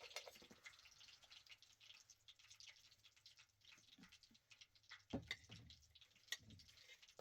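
Near silence with faint scattered ticks and a soft knock about five seconds in.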